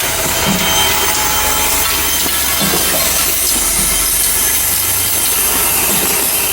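Jar Hon automatic drilling machine running, a loud steady machining noise.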